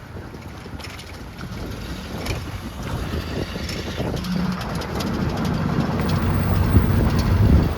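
A car engine running and growing steadily louder, its low hum strongest in the last few seconds.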